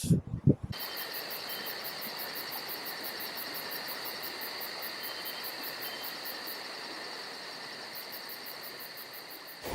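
Crickets chirping: a rapid, even, very high-pitched pulsing over a steady high hum and hiss. It starts suddenly just under a second in, pauses for a moment, then resumes near the end.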